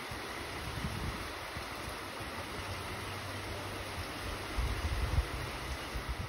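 Steady rain falling, an even hiss, with wind buffeting the microphone in low rumbling gusts, strongest about four and a half seconds in.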